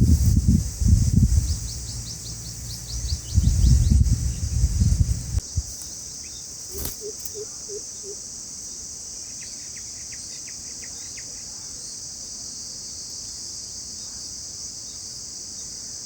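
Steady high-pitched drone of insects, with a heavy low rumble for the first five seconds or so. Brief runs of rapid bird chirps sound over it, and there is one sharp click about seven seconds in.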